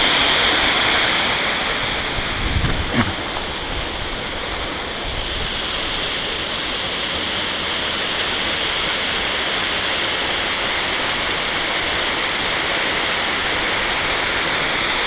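Waterfall rushing steadily, an even splashing roar of falling water.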